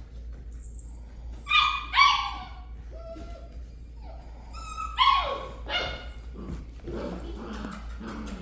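Puppy yipping: two pairs of sharp, high yips that drop in pitch, about one and a half and five seconds in, followed by softer whimpering.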